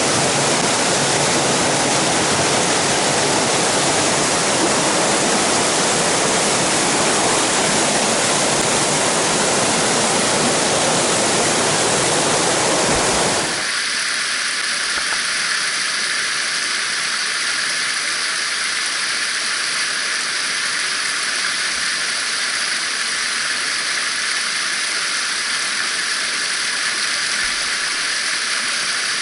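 Rushing water of a mountain stream, a steady full, deep rush; about halfway through it switches abruptly to a thinner, hissier rush with the low rumble gone.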